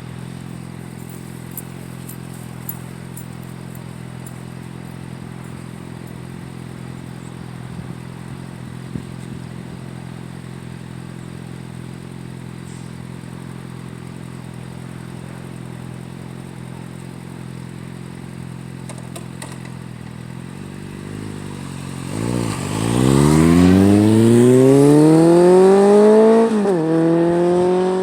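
Kawasaki Concours GTR1400's inline-four engine idling steadily through an unbaffled Blueflame EVO3 exhaust. About 22 seconds in it is revved once: the pitch and loudness climb steadily for about four seconds, then drop quickly back to idle near the end.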